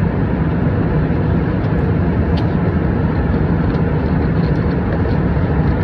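Steady cabin noise of an airliner in flight: the engines and rushing air make an even drone with a low hum underneath. There is a faint click about two seconds in.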